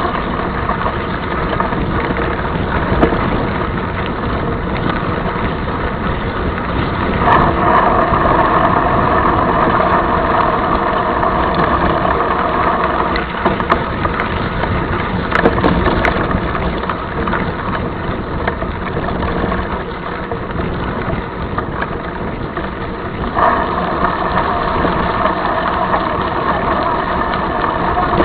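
Mountain bike being ridden over a dirt trail: steady riding noise with scattered sharp rattles and knocks. The noise swells for a few seconds twice, about a quarter of the way in and again near the end.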